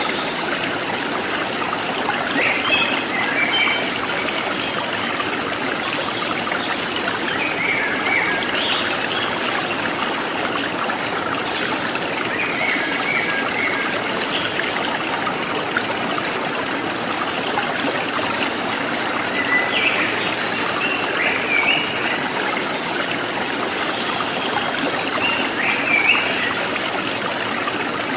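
A forest stream trickling and splashing steadily. Wild birds call over it in short chirping phrases, about six times, spread every few seconds.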